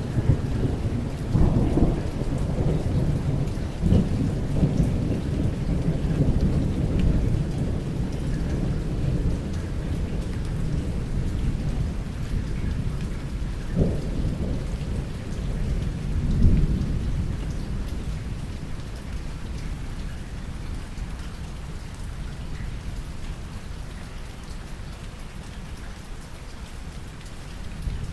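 Thunderstorm: steady rain with thunder rumbling low underneath, swelling louder several times in the first half. Toward the end the thunder dies away, leaving mostly the rain.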